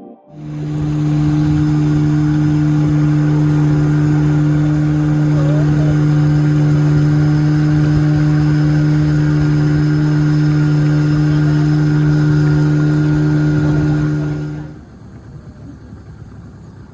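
A loud, steady, unchanging mechanical drone with a hiss over it, like an engine or motor running at constant speed; it cuts off suddenly near the end, leaving a quieter background.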